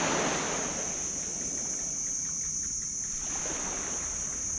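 Small waves washing up on a sand beach: one wash right at the start and a softer one about three seconds in, over a steady high-pitched hiss and a low rumble.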